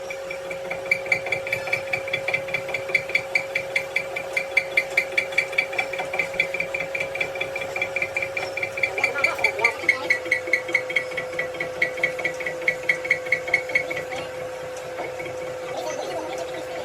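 Workshop machine running with a steady hum and an even, rhythmic metallic ticking about four times a second; the hum drops slightly in pitch about ten seconds in and the ticking stops about three seconds before the end.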